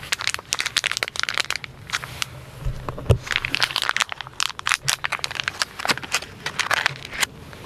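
Crinkling and rustling of packaging, dense irregular crackles, with a soft low thump about three seconds in.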